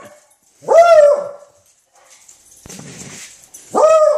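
Pet dog giving two drawn-out, high-pitched barking calls, one about half a second in and one near the end, with a faint breathy noise between them: alert barking at sandhill cranes in the yard.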